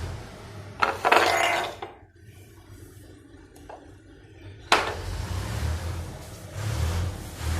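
Household clatter of dishes and glassware being handled: a scraping rattle about a second in, then a sharp clink about two-thirds of the way through.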